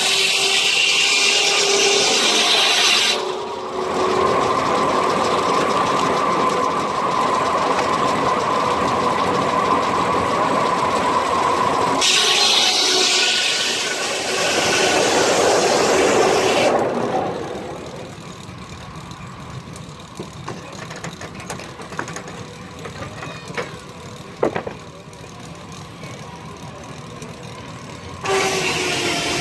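A sawmill belt-driven by a 1926 Keck-Gonnerman steam traction engine, running loud with a steady ringing tone. About two-thirds of the way through it drops to a quieter running with a few knocks, then turns loud again near the end.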